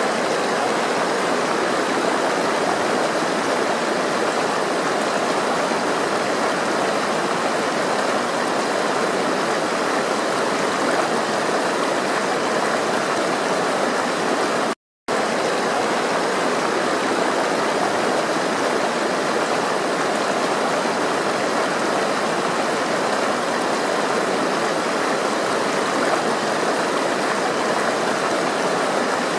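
Steady rushing of flowing water, with no let-up or change in character. It cuts out completely for a split second about halfway through, then resumes unchanged.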